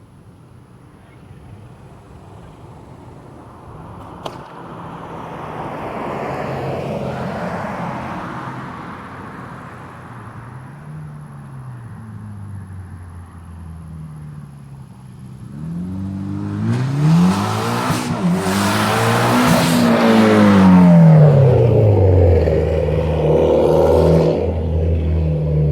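Mitsubishi Lancer Evolution X turbocharged four-cylinder, with an open-dump downpipe and ETS Extreme exhaust, accelerating on a pass. The engine note builds, eases off, then rises hard in a loud full-throttle pull late on, and its pitch drops as the car goes by.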